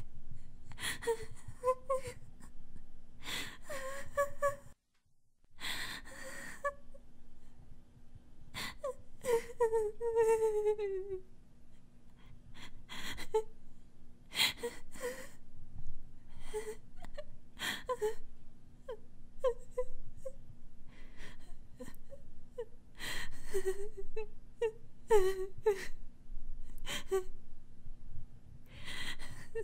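A high-pitched voice whimpering and wailing in short broken sobs, with one long falling moan about ten seconds in. A brief gap of silence about five seconds in, and a faint steady hum underneath.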